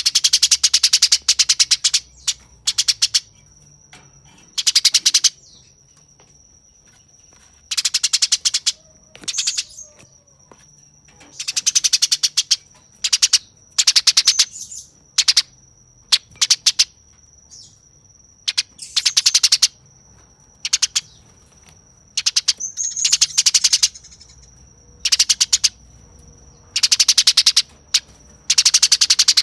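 Eurasian tree sparrow giving harsh, rapid chattering calls in repeated bursts of about a second each with short gaps, the aggressive 'fighting' chatter of the species. A steady thin high tone runs behind the calls.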